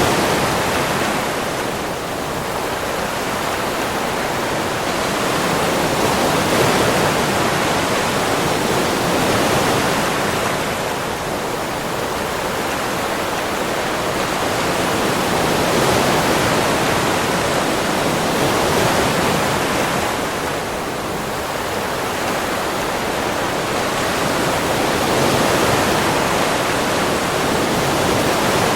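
Ocean surf: waves washing onto a beach in a continuous rush of water that swells and eases slowly every few seconds.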